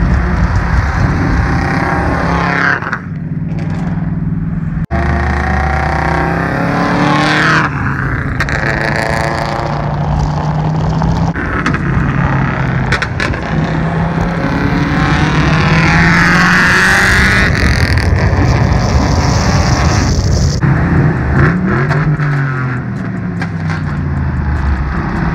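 Turbocharged Subaru WRX flat-four engine running hard, revving and pulling through gears, with passes that rise and fall in pitch. There is an abrupt cut about five seconds in, where one clip gives way to another.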